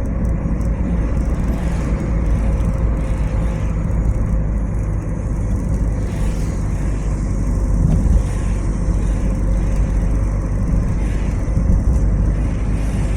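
Car driving along a road: steady low rumble of engine and road noise, with a faint constant hum running through it.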